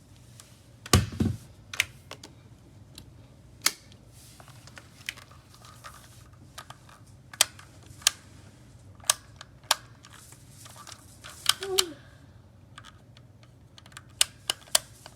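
Irregular sharp clicks and taps, like plastic being handled, with a heavier thump about a second in and a short cluster of knocks near twelve seconds.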